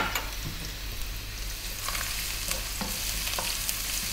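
Minced garlic and ginger sizzling in hot corn oil in a nonstick wok on high heat, with a wooden spoon stirring and tapping against the pan in scattered clicks. A sharp knock at the very start is the loudest moment.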